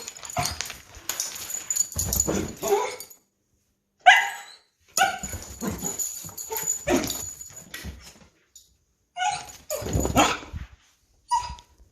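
A dog barking and yipping in short bursts with brief quiet gaps between, worked up in a frenzy after a bath.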